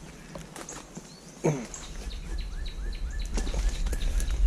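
Wild birds calling: one bird repeats a short rising chirp about five times in quick succession, about four a second, among other high chirps. There is a single knock about one and a half seconds in, over a low outdoor rumble.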